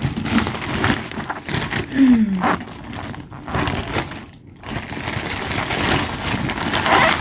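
Cardboard box and packaging being handled and opened: irregular scraping, crinkling and knocking.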